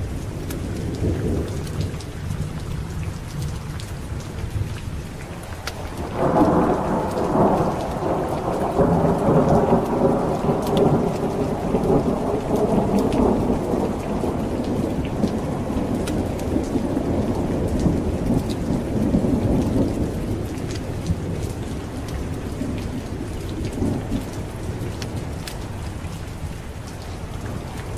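Steady heavy rain with thunder rumbling. A long roll of thunder breaks in about six seconds in, swells, then slowly dies away, and further rumbles follow near the end.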